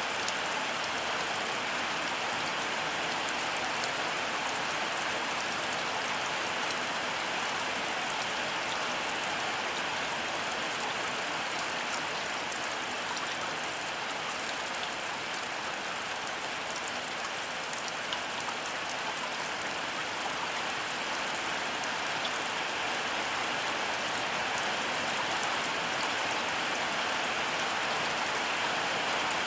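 Heavy rain falling steadily: an even hiss with a fine patter of drops.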